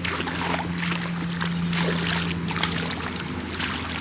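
A steady low motor hum under an uneven rushing, washing noise.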